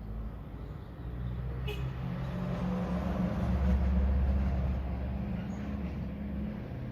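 A motor vehicle's engine running, swelling to its loudest about four seconds in and then easing off, as when a vehicle passes. A single light click comes just before two seconds in.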